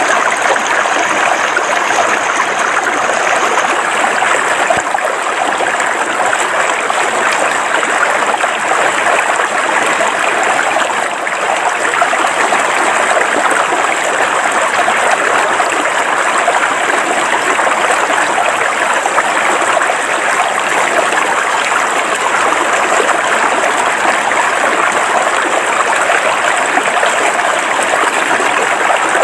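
River water flowing over rocks: a steady, dense rush of babbling water.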